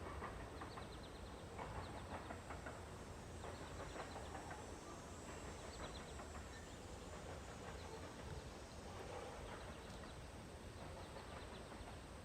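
A 42-inch Hampton Bay Gazebo ceiling fan coasting down after being switched off, with faint irregular ticking over a low hum; the ticks thin out as it slows.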